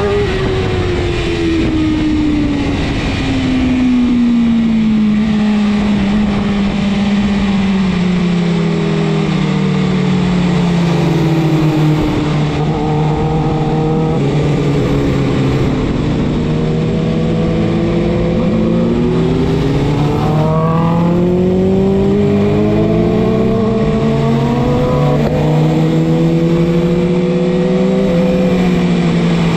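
BMW S1000RR superbike's inline-four engine heard from on the bike, revs falling steadily over the first several seconds as it slows, then running at low revs with a couple of short rises and falls in pitch, over steady wind rush.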